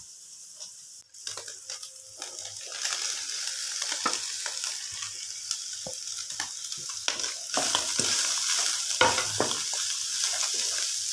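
Chopped vegetables sizzling in hot oil in a wok as they are tipped in and stirred with a wooden spatula, which scrapes and knocks against the pan. The sizzle builds about three seconds in and grows louder again past the middle.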